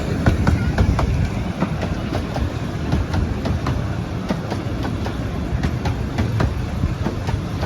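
A 15-inch-gauge miniature train running along the track: a steady rumble with frequent clicks of the wheels over the rail joints.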